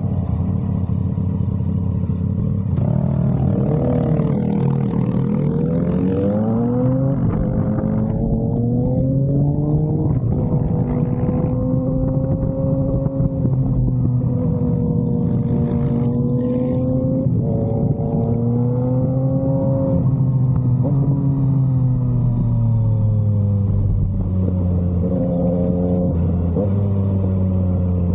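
Yamaha MT-09's three-cylinder engine through an SC Project exhaust, pulling hard with a steep rise in pitch a few seconds in. It then holds at cruising revs, the pitch swelling and easing as the throttle opens and closes, and drops once around two-thirds of the way through.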